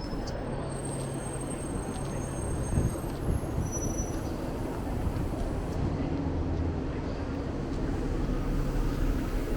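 City street ambience dominated by a steady low rumble of vehicle engines, with faint thin high-pitched whistles in the first few seconds.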